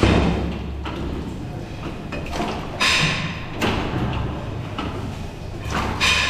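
Workshop metalwork: several sharp metal clanks and knocks over a running background clatter. The clanks come near the start, about three seconds in and near the end, and a couple of them ring on briefly.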